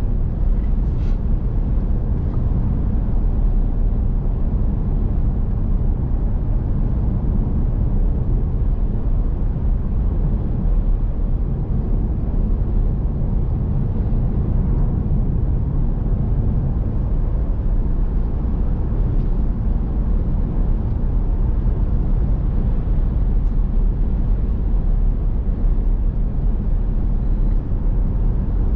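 Steady engine and road noise of a moving vehicle heard from inside the cabin, a constant low rumble.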